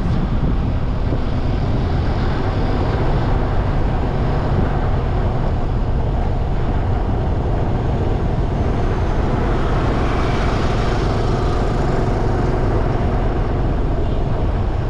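Steady loud road noise from riding through traffic: wind rushing on the microphone mixed with vehicle engine and traffic sound.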